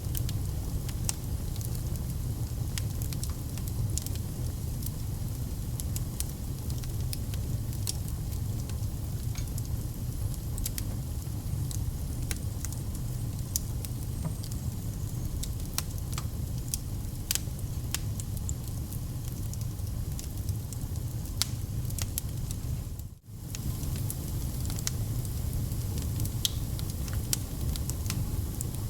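Wood fire in a fireplace burning with a steady low rumble and frequent sharp crackles and pops. The sound cuts out for an instant about three quarters of the way through.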